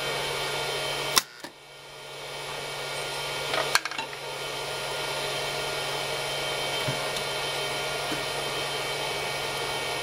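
Induction-heated solder pot's heater unit running with a steady noise and faint steady tones. About a second in it clicks and the noise drops sharply, then builds back up over the next few seconds, as when the heat control switches it. Another click comes near four seconds.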